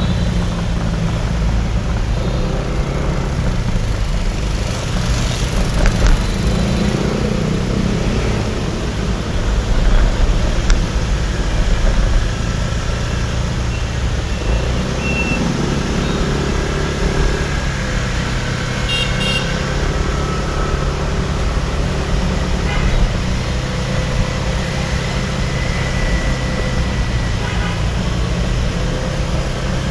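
Dense city traffic heard from a motorcycle on the move: motorbike and car engines and road noise run steadily, and horns toot now and then, most clearly about two-thirds of the way through.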